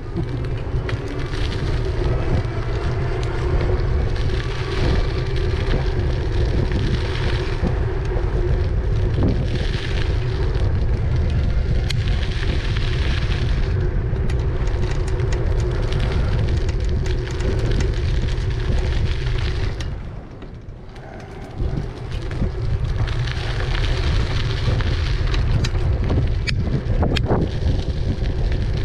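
Wind buffeting the microphone during an e-bike ride: a loud, steady rumble with a faint steady hum underneath. It drops away for a moment about two-thirds of the way through, then comes back.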